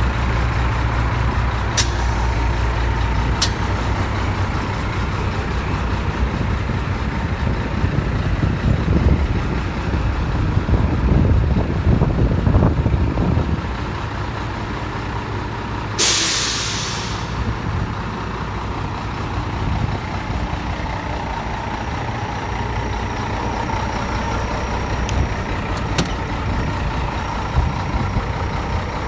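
Scania 124 T400 truck's six-cylinder diesel engine running, revved up for a few seconds around the middle. A short, sharp hiss of compressed air from the truck's air system comes about halfway through, along with a few clicks.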